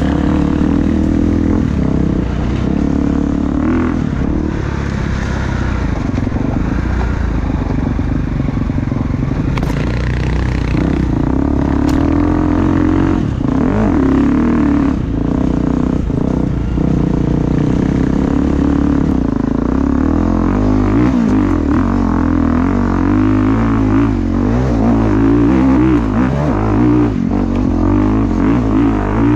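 Gas Gas 350 four-stroke enduro motorcycle engine running under way, its revs rising and falling.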